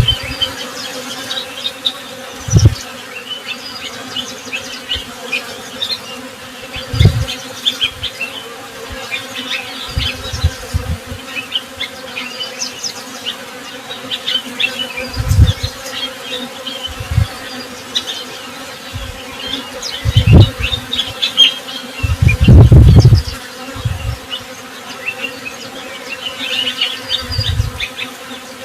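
Honey bees buzzing in a steady hum, with small birds chirping throughout. Occasional brief low thuds break in, the longest and loudest about two-thirds of the way in.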